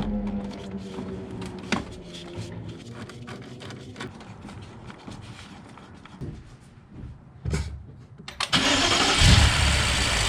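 A few clicks and a faint hum, then about eight and a half seconds in the BMW M5's S63 twin-turbo V8 cranks and fires, running loud and steady after it catches. This is the first start after the ignition coils were replaced to cure a misfire.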